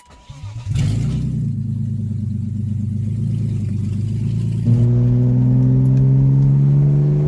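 1998 BMW 323is's 2.5-litre straight-six starting after its head gasket job and catching within the first second, then running steadily. About four and a half seconds in it gets louder and its speed climbs slowly.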